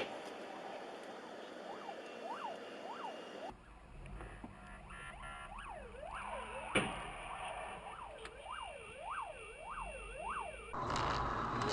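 Emergency-vehicle siren sweeping quickly up and down in pitch, about two cycles a second, with one sharp knock about seven seconds in.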